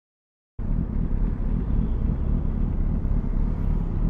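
Silence, then suddenly about half a second in, a 2007 Kawasaki ZX-6R's inline-four engine running steadily through a Yoshimura RS5 carbon end can, heard as a dense low rumble.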